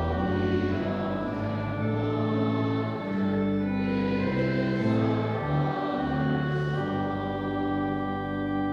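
Congregation singing a hymn with organ accompaniment: slow, held chords that move in steps.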